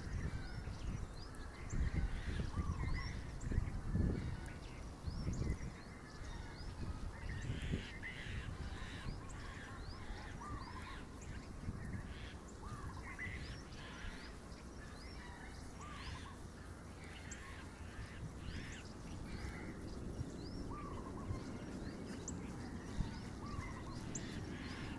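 Birds calling, with many short rising chirps and calls scattered and overlapping throughout. A low rumble runs under them and is strongest in the first few seconds.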